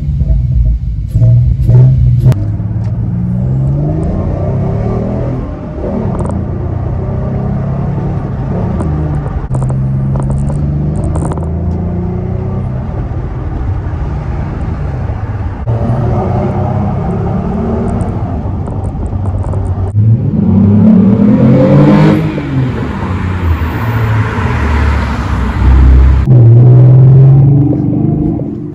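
The 3.7-litre V6 of a 2014 Ford Mustang, breathing through a newly fitted H-pipe exhaust, heard from inside the cabin as the car is driven. The engine note climbs and drops again and again as it accelerates and shifts, with its loudest rev-ups about two-thirds of the way through and near the end.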